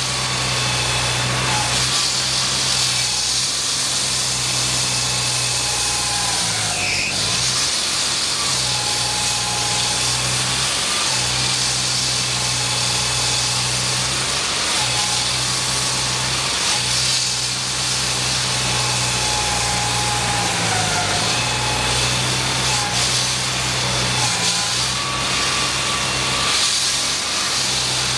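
An engine running steadily, with a constant low hum that dips briefly now and then.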